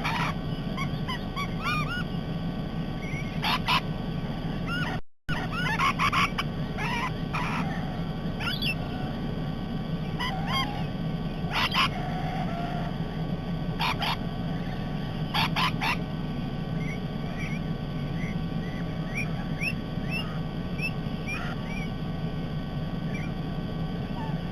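A flock of parrots screeching and chattering: repeated short harsh calls mixed with quicker twittering notes, over a steady low hum. The audio drops out for a moment about five seconds in.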